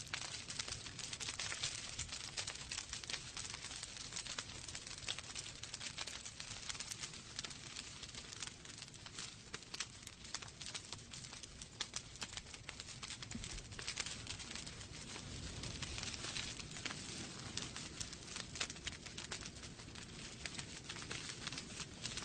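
Wood fire burning in a fireplace, logs crackling steadily with many small quick pops and snaps over a soft hiss and a low rumble.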